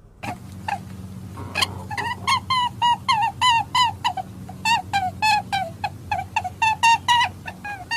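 An animal calling in a fast run of short, clipped calls, about three a second, some overlapping, over a steady low hum.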